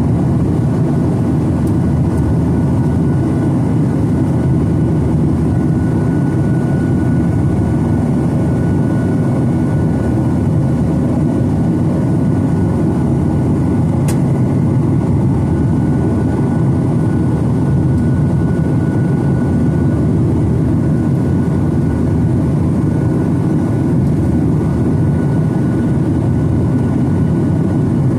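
Steady cabin noise of a Boeing 737-900ER heard from inside the cabin, a dense low rumble from its CFM56-7B engines with a faint high whine that comes and goes.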